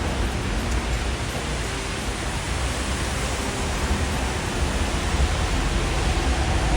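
Steady hiss of a rain-soaked street, with rain and wet road noise over a constant low rumble.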